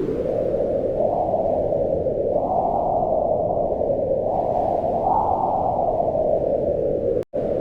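Wind blowing, a steady low rush whose pitch rises and falls as it gusts. The sound cuts out for an instant near the end.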